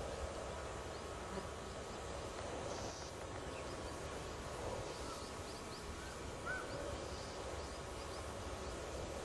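Steady background hiss and low rumble with faint, scattered short chirps of distant birds, and a couple of slightly louder short calls about six seconds in.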